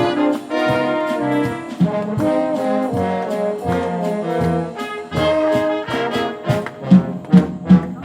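Wind band playing, with a brass section carrying a melody over moving harmonies. Near the end, loud regular beats come in at about two to three a second.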